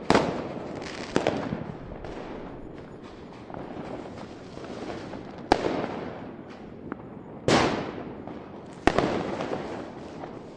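Fireworks going off: five loud, sharp bangs spread unevenly, with a few smaller pops between them. Each bang trails off in a fading, crackling rumble over a steady background noise.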